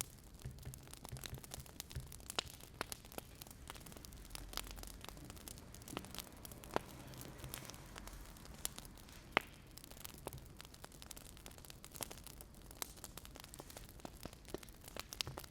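Wood fire crackling: irregular sharp pops and snaps, some louder than others, over a faint low hiss.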